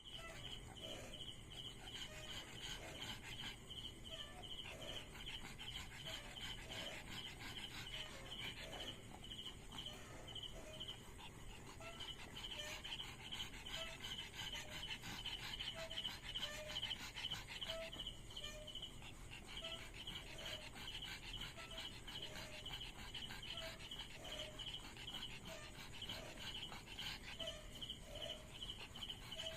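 Insects chirping: a high, rapidly pulsing trill that runs almost without a break, with a fainter lower squeak about once a second.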